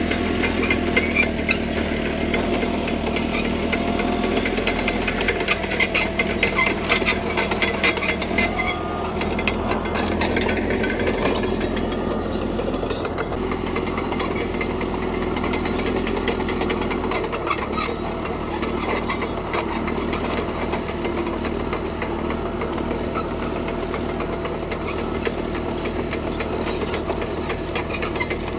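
CAT D3K crawler dozer's diesel engine running steadily as it works gravel, with rapid metallic clatter through the first third. The engine note shifts about a third of the way in and again past halfway.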